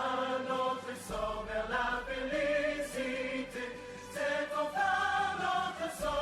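Background music with a choir singing sustained chords.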